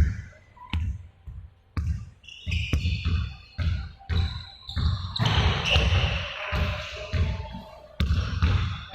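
Balls bouncing on a hard floor during a training session: an irregular run of dull thuds, several a second, from more than one ball at a time.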